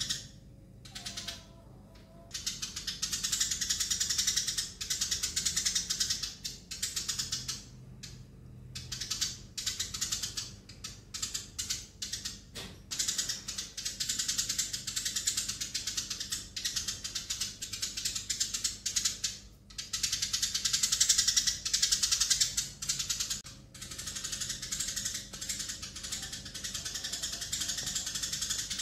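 Eurasian tree sparrows chirping and chattering rapidly in long bouts, with brief breaks between them.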